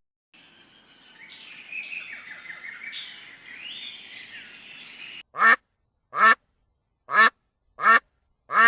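Animal calls: several seconds of softer, mixed calls over a steady high tone, then five loud, short calls evenly spaced a little under a second apart.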